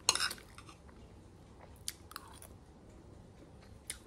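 A person chewing a mouthful of food close to the microphone, with one short loud crackly burst right at the start and a few faint clicks later.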